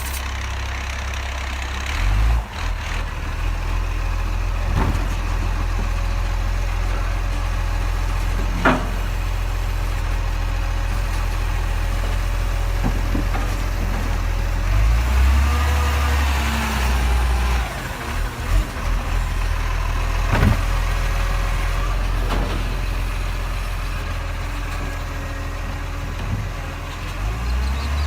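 Garbage truck's diesel engine running with a steady deep rumble. A few sharp knocks come at intervals, and a brief rising and falling tone comes about halfway through.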